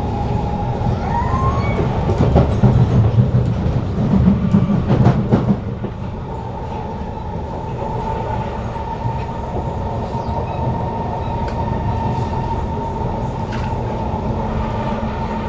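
Interior of a Kawasaki Heavy Industries C151 metro train running between stations: a steady whine from its GTO-VVVF traction equipment over the rumble of wheels on track. The rumble and clatter grow louder from about two seconds in, then settle back a little before six seconds.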